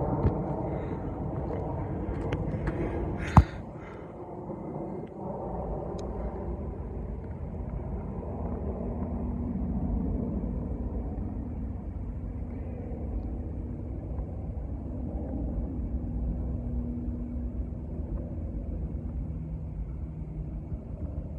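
Low, steady engine rumble, with a sharp click about three and a half seconds in.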